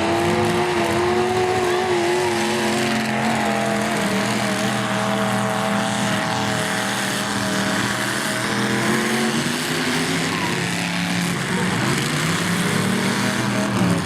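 Several demolition derby car engines running and revving together, their pitches wavering up and down at a steady loud level.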